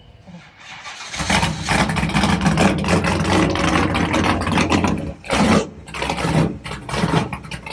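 A vehicle engine starts about a second in and runs loudly, its level surging up and down.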